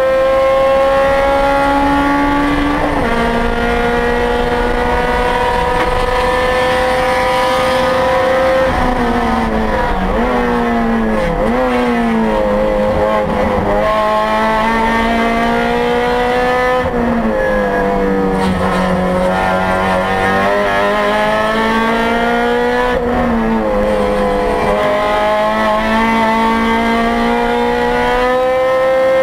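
2008 Honda Civic Si race car's four-cylinder engine heard from inside the cabin at racing speed: it pulls hard with an upshift about three seconds in, then drops in pitch with short throttle blips as it brakes and downshifts for a corner, and pulls again out of the corner with two more upshifts.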